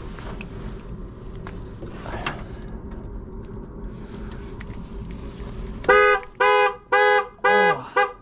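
A vehicle engine runs with a low steady hum, then about six seconds in a vehicle horn gives four short, loud honks in quick succession, about half a second apart.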